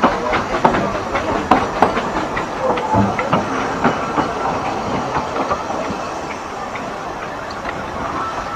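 Narrow gauge steam train running, with irregular clicks and clacks from the wheels on the rail joints over a steady hiss of steam and running noise.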